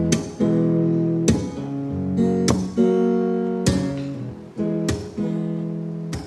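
Acoustic guitar accompanying a song, strummed in single chords about once every 1.2 seconds, each chord left to ring out.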